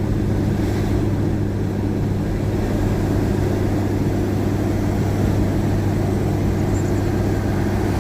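Tow vehicle's engine pulling hard with the throttle floored, a steady drone with road noise inside the cabin while towing a two-ton trailer up a steep hill.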